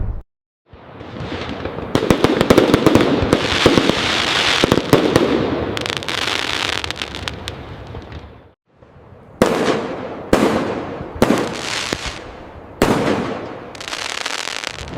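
Fireworks going off: a long dense run of rapid crackling bangs that builds and then fades away. After a short break come four separate sharp bursts about a second apart, each trailing off.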